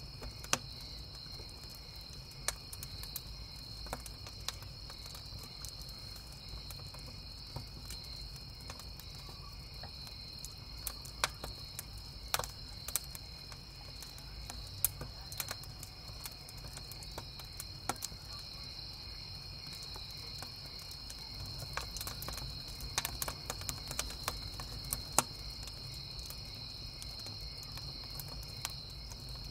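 Crickets chirping in a steady high trill, with a wood campfire crackling in irregular sharp pops, a cluster of pops coming near the end, over a steady low rumble.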